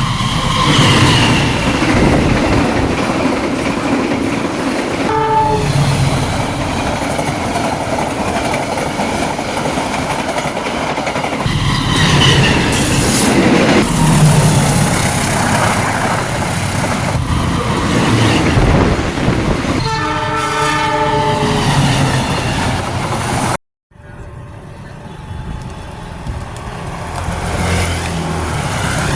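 Long-distance passenger train passing close by at speed, wheels rumbling and clattering over the rail joints. Its horn sounds briefly about five seconds in and again for about two seconds near twenty seconds in. The sound cuts off abruptly near the end, then a quieter train rumble builds again.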